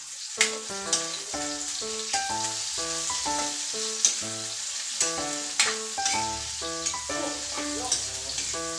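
Food sizzling and frying in a wok on a gas stove, with a metal spatula scraping and clinking against the pan now and then as it is stirred. Melodic background music plays throughout.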